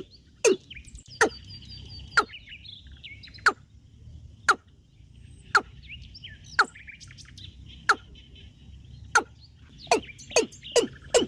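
Bird calls: loud, sharp notes that each slide steeply down in pitch, repeated about once a second and coming quicker near the end, over softer twittering chirps.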